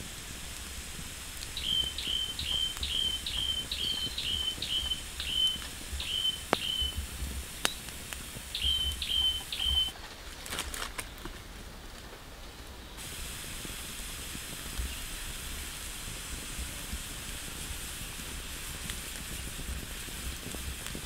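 A bird calling a run of short whistled notes, each dropping quickly to a steady pitch, two or three a second, stopping about halfway through. A steady hiss runs underneath, with a couple of sharp crackles in the middle.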